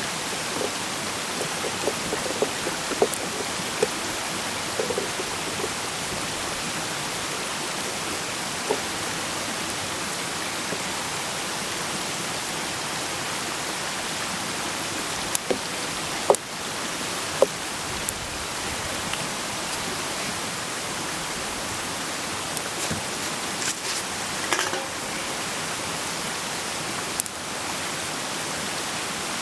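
Food frying in a pan over a campfire: a steady sizzling hiss with scattered sharp pops and crackles.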